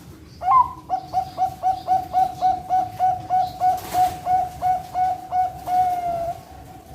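Zebra dove (Bangkok perkutut) singing one full song: a higher opening note, then a quick even run of short coos at about four a second, ending in one long drawn-out note.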